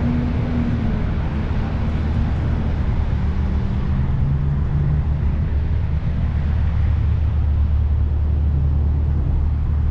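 Car engine idling close by: a steady low rumble with a faint hum that shifts pitch a few times.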